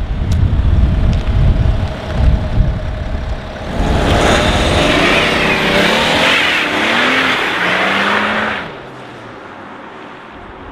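BMW 6 Series Gran Coupé accelerating hard, starting about four seconds in: the engine note rises three times in a row as it shifts up through the gears, then it fades away quickly. Wind rumbles on the microphone before the car pulls away.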